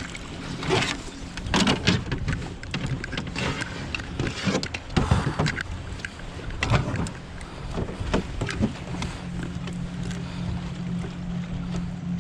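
Water slapping irregularly against a canoe hull, with wind on the microphone. A steady low hum comes up about nine seconds in.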